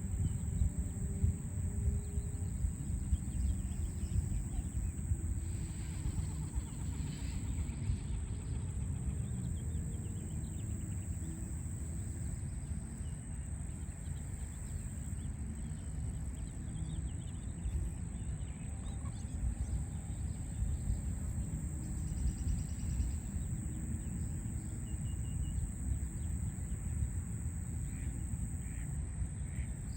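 Urban park ambience: a low, steady city rumble with scattered faint bird chirps over it, and a steady high-pitched hiss or buzz throughout.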